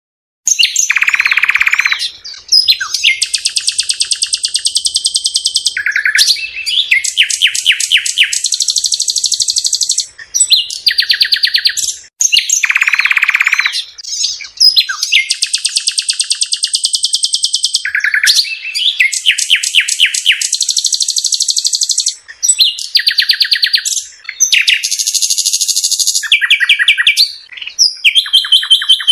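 A songbird singing close to the microphone: a long, varied song of rapid trills and buzzy rattling notes, with only brief pauses.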